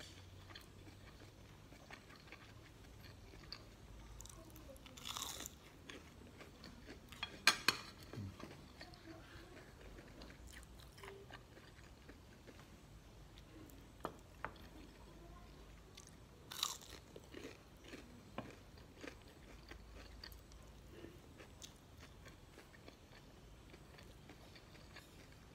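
Close chewing of crispy breaded chicken nuggets and fried rice, with scattered sharp crunches and clicks, possibly including the metal spoon and fork on the plate. The loudest is a quick cluster about a third of the way in.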